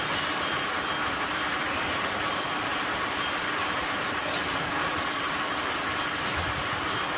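Freight train of tank wagons rolling past close by: a steady, unbroken noise of wheels on rail.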